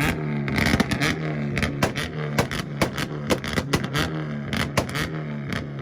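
Car engine held on a two-step rev limiter: a steady, stuttering engine note broken by rapid, irregular pops and bangs from the exhaust.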